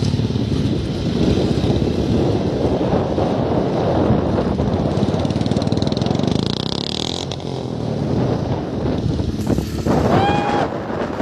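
Motorcycle running on the move with rough engine and wind noise. About ten seconds in, a short high pitched tone rises and then holds briefly.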